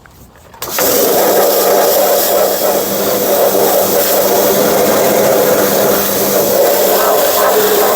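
Pressure washer starting up under a second in and then running steadily: a steady spray hiss over a constant motor hum.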